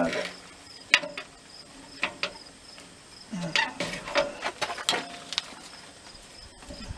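A few scattered light clicks and knocks, over faint high insect chirping.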